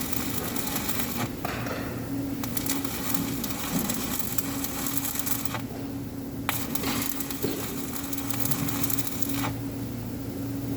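Electric arc welding: the arc crackling and sizzling steadily over the welder's low hum, breaking off briefly about a second in and for about a second near the middle, then dying down near the end.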